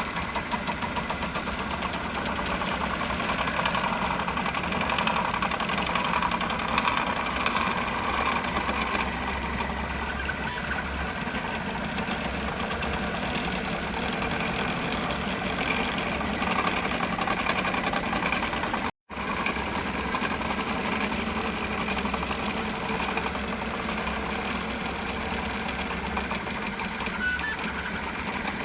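3D printer running a print: the stepper motors whir and buzz steadily with a fast, busy chatter of head and bed moves. There is a brief dropout about two-thirds of the way through.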